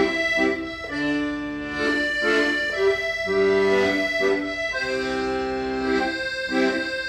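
Accordion playing a slow melody in long held notes over sustained chords.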